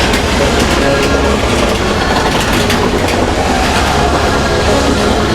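Space Mountain roller coaster train running along its track in the dark, heard from on board: a steady loud rattle and rush with faint repeated clicks.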